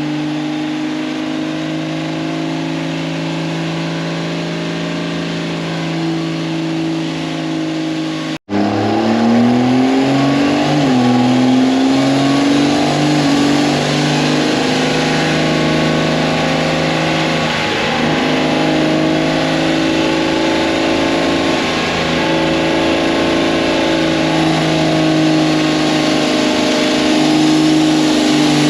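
A truck engine running hard at high, slowly shifting revs, its sound cutting out abruptly about eight and a half seconds in and returning louder.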